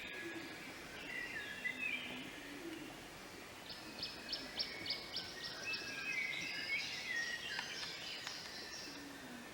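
Canaries singing: varied warbling phrases throughout, with a quick run of repeated high notes, about four a second, from about four seconds in, over a steady background hiss.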